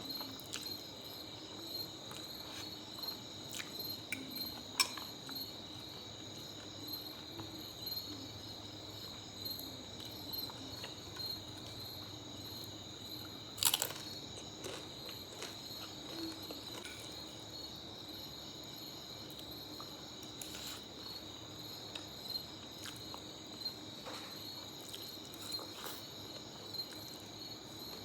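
Crickets chirping steadily in the background, with scattered short clicks; the sharpest come about five seconds in and about fourteen seconds in.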